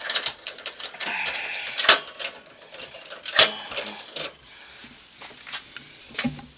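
Scattered sharp clicks and knocks with rustling, handling sounds of a person moving through a doorway past a curtain; the two loudest knocks come about two and three and a half seconds in.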